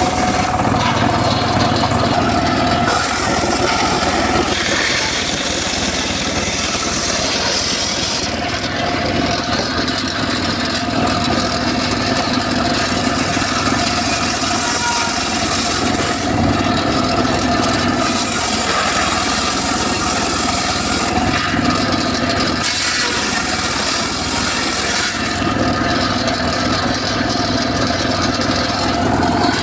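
Homemade circular saw running steadily while cutting mahogany wood, its sound shifting every few seconds.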